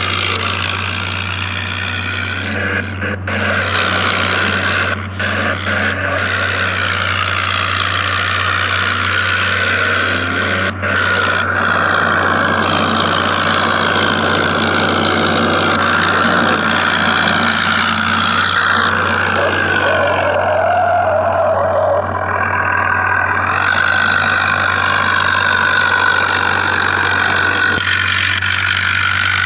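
A vehicle engine running steadily at idle, with an unbroken low drone.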